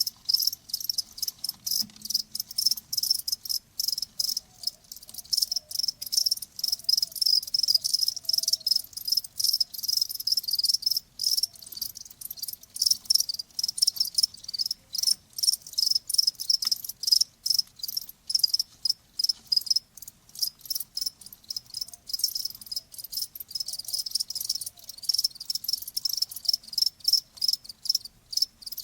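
Crickets chirping: a dense, continuous run of rapid high-pitched pulses with brief irregular breaks.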